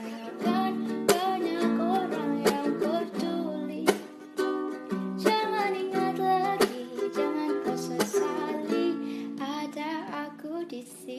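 A woman singing to a strummed guitar, her voice gliding over steady chords.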